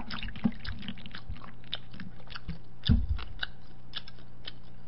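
Close-miked chewing with wet mouth clicks and smacks, a person eating. A louder, low thump comes about three seconds in.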